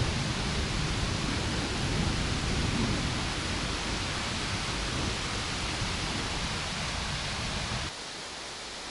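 Heavy thunderstorm downpour hissing steadily, with a low rumble of thunder in the first few seconds that slowly dies away. Near the end the sound drops abruptly and the low rumble cuts out, leaving a quieter hiss of rain.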